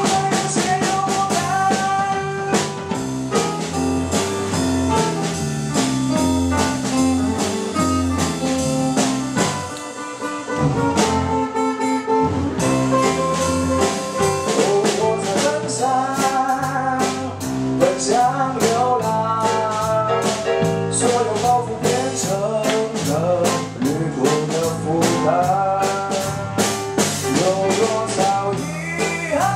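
Band playing an instrumental break of a pop song: a melodic lead line over a steady drum beat.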